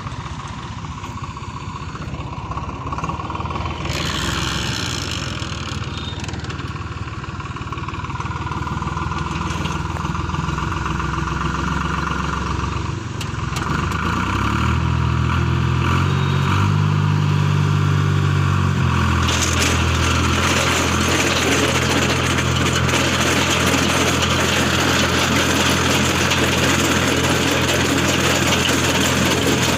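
Tractor engine running. Its speed rises about halfway through, then holds steady at a higher pitch, with added high-pitched mechanical noise for the last third.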